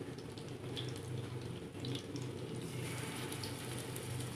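Stuffed bitter gourds shallow-frying in hot oil over a low flame: a steady soft sizzle with scattered small pops, turning a little brighter about three seconds in.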